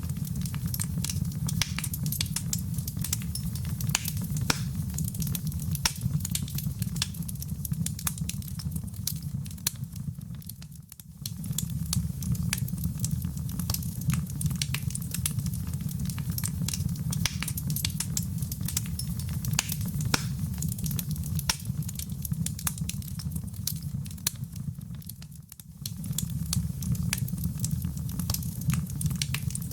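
Wood fire burning in a fireplace: a steady low rumble with many sharp crackles and pops scattered through it. The sound fades down briefly twice, about eleven and twenty-five seconds in, then comes straight back.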